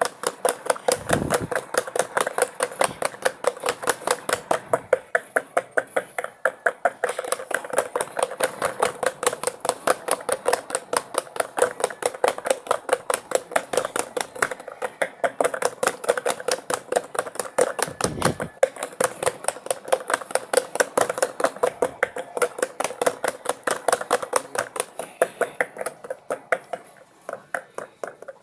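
Mini twin-tub washing machine spinning in its spin cycle: a steady motor hum under a rapid, regular clicking, several clicks a second, with an occasional low thump.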